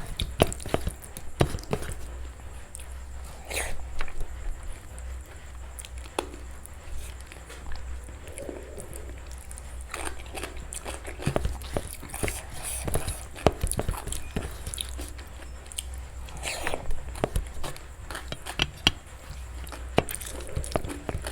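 Close-miked eating sounds: crisp crunches and bites, as of papad and raw salad, mixed with soft chewing of khichdi and mashed vegetables, in irregular clusters of sharp clicks over a low steady hum.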